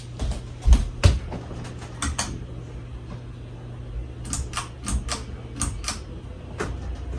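Steady low hum from a Hunter Low Profile II ceiling fan's motor, with irregular sharp clicks and ticks over it, the loudest about a second in.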